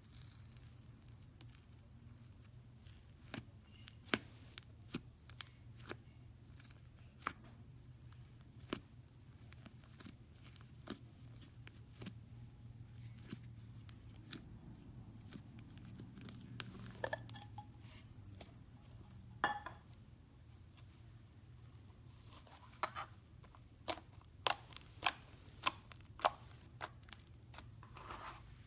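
Slime being handled, giving scattered sharp clicks and pops, more of them in quick succession near the end, over a faint steady low hum.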